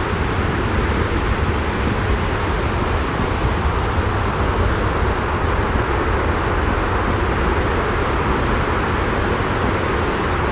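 Steady white-noise ambience: an even rushing hiss over a deep rumble, unchanging throughout.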